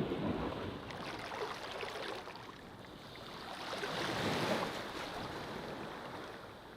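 Ocean waves washing onto a beach: a steady hiss of surf that swells to a peak about four seconds in, then draws back and fades.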